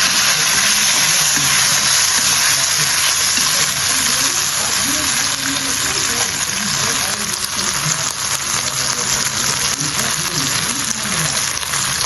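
Steady sizzling of food frying in a cooking pot, with faint voices underneath.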